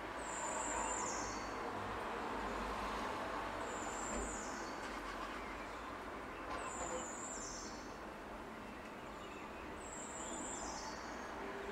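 A bird repeating a high, thin call about every two seconds, each a held note stepping down to a lower one, over a steady rushing background.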